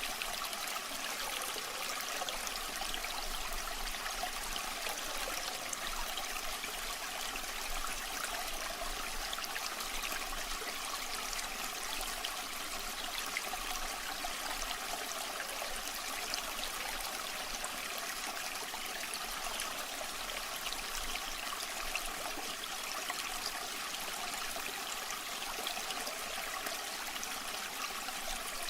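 Waterfall water rushing steadily: an even, unbroken hiss with little low rumble.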